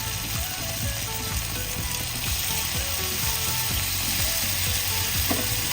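Pieces of green-masala-marinated chicken sizzling in a little hot oil in a small pan, with a steady hiss and many small crackles.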